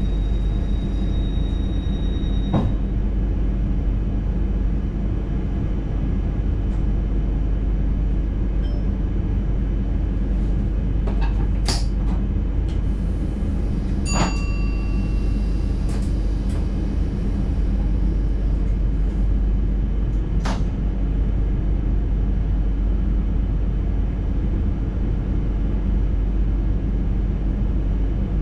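Intercity train running steadily, heard from the driver's cab: a constant low rumble of wheels on rails, with a few sharp clicks scattered through it. A faint high tone stops about two and a half seconds in.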